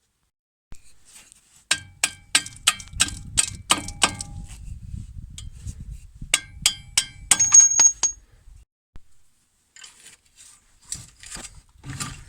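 A hammer striking steel with a ringing clang: a quick run of about eight blows, a pause of two seconds, then another run of five or six. The blows knock the steering tie-rod end free of the strut's steering knuckle.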